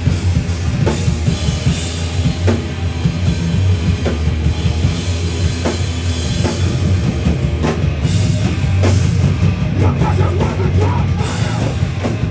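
Live heavy rock band playing loud, with a heavy low end and drums hitting through it.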